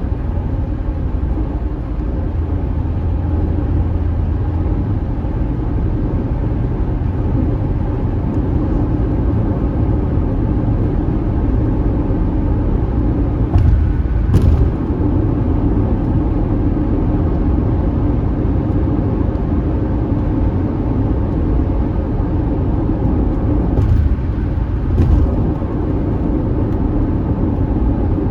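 Car driving on the road: a steady engine and tyre rumble, with a couple of brief knocks about halfway through and again near the end.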